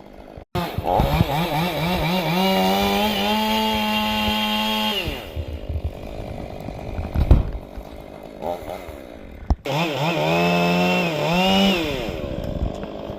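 Chainsaw revving up to full throttle twice: each time the engine climbs to a high steady pitch, holds for a couple of seconds and drops back to a lower idle.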